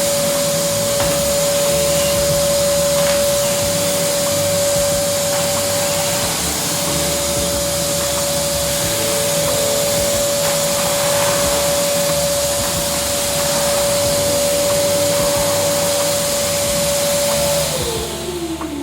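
AmazonBasics 1400 W wet-and-dry vacuum cleaner running steadily with a constant motor whine. Near the end it is switched off and the whine falls in pitch as the motor spins down.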